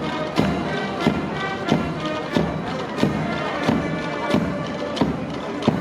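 Procession band playing a slow march: sustained wind-instrument chords over a drum beat struck about one and a half times a second.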